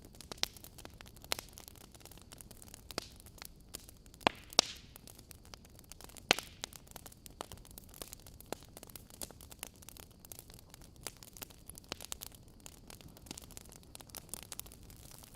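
Wood fire burning in a fireplace, crackling with irregular sharp pops over a low steady hiss. A few louder pops come around the middle.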